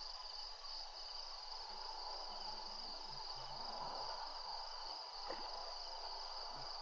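Evening insect chorus, a steady high-pitched trill over a faint hiss, with a single short tap about five seconds in.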